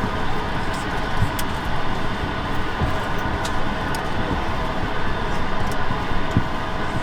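Steady airliner cabin noise inside an Airbus A220: a constant hiss with a low hum, and a few faint clicks.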